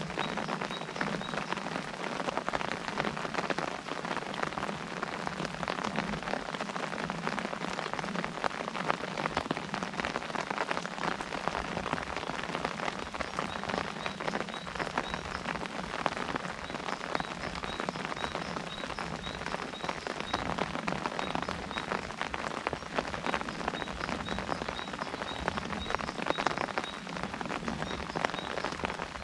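Steady rain pattering on an umbrella, a dense run of individual drop hits over the hiss of the rain.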